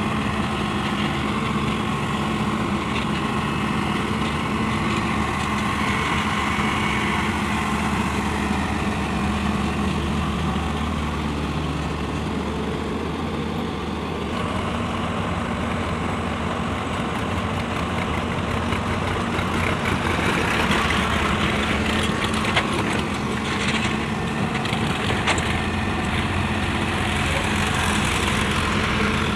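Heavy diesel machinery running steadily, the engine's hum level throughout. About two-thirds through, a louder rush of noise with a few knocks comes in for several seconds, then settles.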